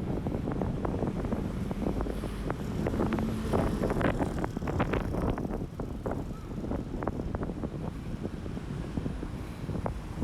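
Strong wind buffeting a phone's microphone: a loud, low rumble with many short crackles as the gusts hit.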